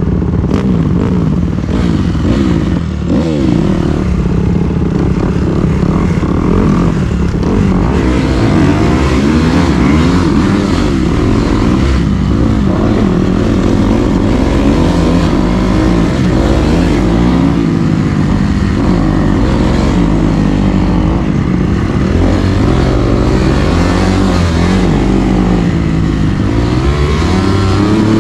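Dirt bike engine running hard on the move, its pitch repeatedly rising and falling as the throttle is opened and closed.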